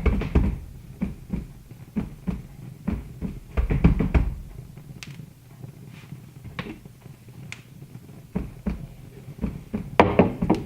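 Wood fire crackling, with irregular sharp pops and snaps that come in clusters.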